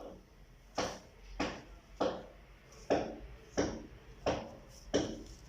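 A run of about seven regular strokes, roughly one every 0.7 seconds, each starting sharply and fading quickly, like a tool working on a workpiece by hand.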